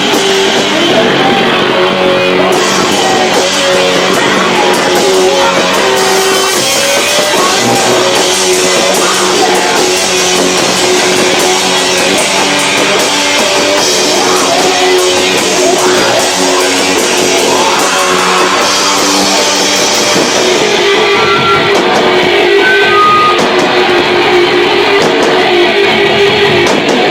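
Live rock band playing loud, with electric guitars, drums and singing, picked up by a camcorder's built-in microphone that is overloaded by the volume, so the sound is distorted.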